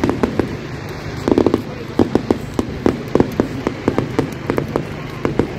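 Fireworks and firecrackers popping in quick, irregular cracks, several a second, with a crowd's voices murmuring underneath.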